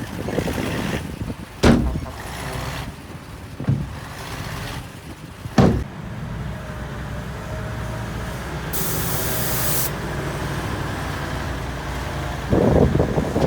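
Heavy diesel earthmoving machinery running steadily, with three sharp bangs in the first six seconds, a short burst of hiss about nine seconds in, and a louder rough rumble near the end.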